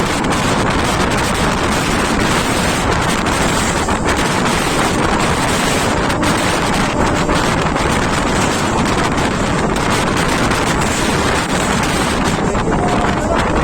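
Heavy wind noise on the microphone over the steady running noise of a train moving at speed, loud and unbroken throughout.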